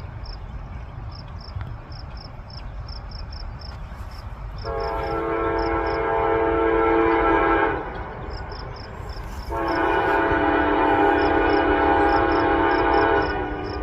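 Diesel freight locomotive's multi-chime air horn sounding two long blasts, the second a little longer, over the low rumble of the engine. Crickets chirp steadily.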